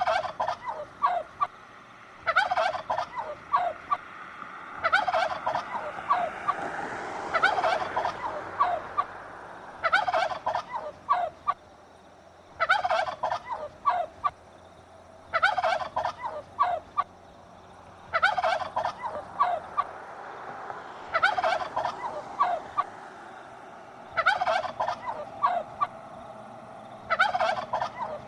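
Farm fowl calling over and over in short, fast warbling bursts, about one every two and a half to three seconds.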